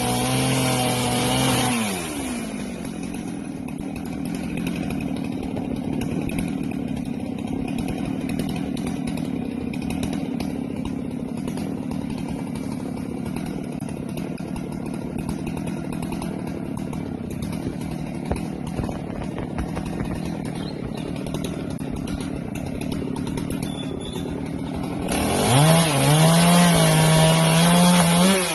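Husqvarna 390XP two-stroke chainsaw running at full throttle, dropping to a steady idle about two seconds in, then revving back up to full throttle near the end.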